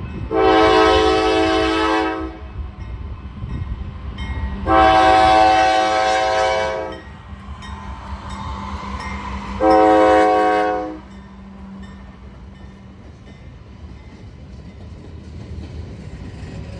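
Diesel freight locomotive's air horn sounding three blasts, two long and then a short one, over the low rumble of the moving train.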